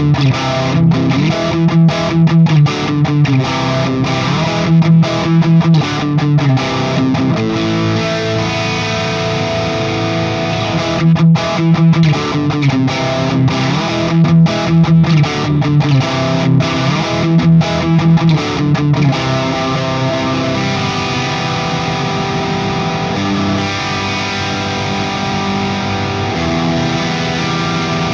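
Distorted electric guitar, a 1999 Gibson Les Paul Classic with Righteous Sound Gold Tooth humbuckers, played through a Friedman Small Box 50 amp. It plays a chunky riff with abrupt stops, then lets longer chords ring in the last third.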